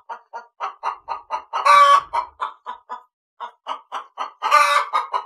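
Chicken clucking: a quick run of short clucks, about five a second, broken twice by a louder drawn-out squawk, a little under two seconds in and again near the end.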